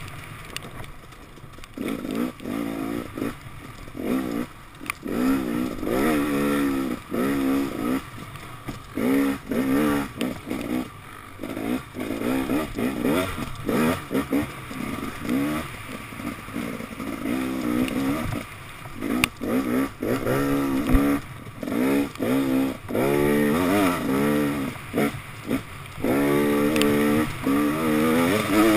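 2014 KTM 250 XC-W's two-stroke single-cylinder engine on the trail, revving up in repeated short throttle bursts about once a second and dropping back between them as the rider works the throttle through tight singletrack.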